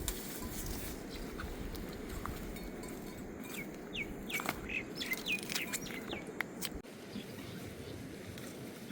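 A bird chirping a quick run of short high notes for about three seconds in the middle, over a steady low outdoor rush.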